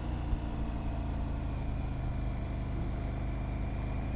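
Motorcycle engine running steadily under way, with even road and wind noise.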